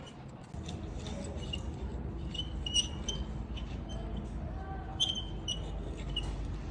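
A low, steady machine hum starts about half a second in, with scattered clicks and short high squeaks over it.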